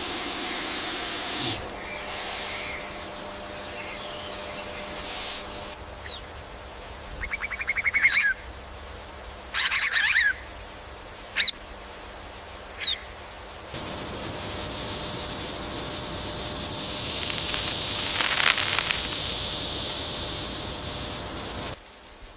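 A bird calling in short separate bursts, one of them a buzzy, rapidly pulsing call and others sharp chirps, between stretches of steady high-pitched hiss. The loudest hiss comes in the first second and a half.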